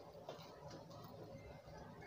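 Faint chewing of a crisp fried samosa: soft mouth noises with small crunchy clicks, one a little louder near the start.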